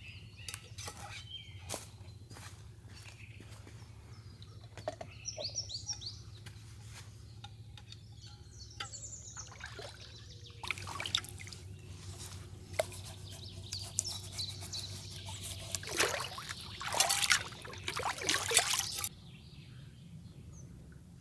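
Birds chirping over quiet forest background, with scattered clicks and knocks of camp gear being handled. From about ten seconds in, a louder stretch of dense rustling and clattering handling noise runs for about eight seconds, then stops suddenly.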